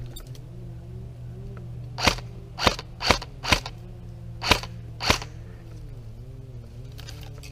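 Airsoft gun firing six sharp single shots at uneven spacing over about three seconds, over a steady low hum.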